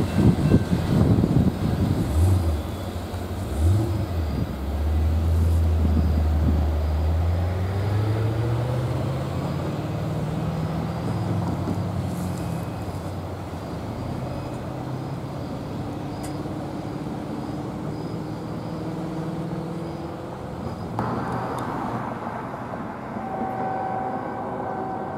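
A freight train's last cars clattering over the crossing for the first couple of seconds. Then a road vehicle's engine runs low and steady and pulls away, rising in pitch.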